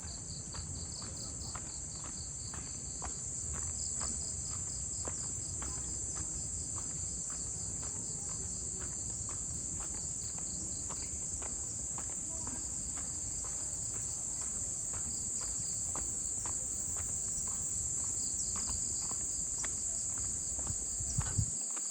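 Dense chorus of tropical insects: a steady high-pitched shrill with a pulsing trill just below it. Footsteps sound at an even walking pace underneath.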